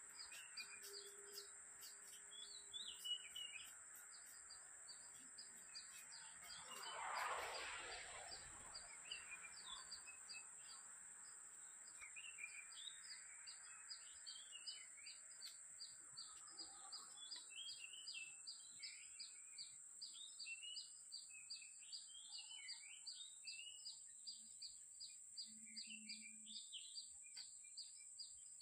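Faint birds chirping and calling over a steady high-pitched drone. A soft swell of noise rises and fades about seven seconds in. From about twelve seconds on, quick chirps repeat in a run of several a second.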